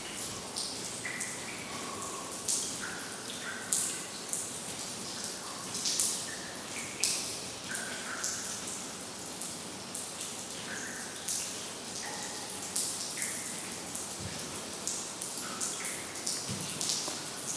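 Water dripping from roof leaks: irregular single drops, about one or two a second, each landing with a short pitched plink over a steady background hiss.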